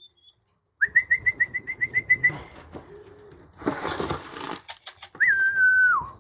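A person whistling to call racing pigeons down to the loft: a fast warbling whistle, then a single held whistle that drops in pitch at the end. A short rustling burst comes in between.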